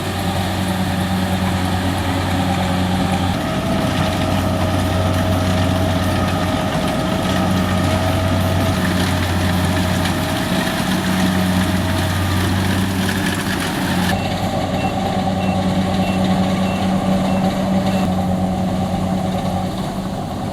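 Rice combine harvester's diesel engine running steadily with a constant hum and a whining mid tone. Just past the middle, a series of short high beeps sounds for a few seconds.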